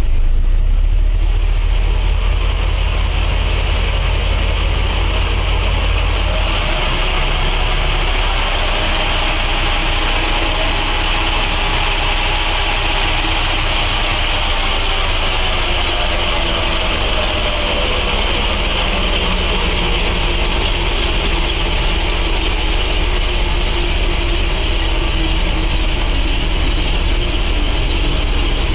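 Truck engine running steadily, with a low rumble and a hiss; the engine note drifts slowly up and down.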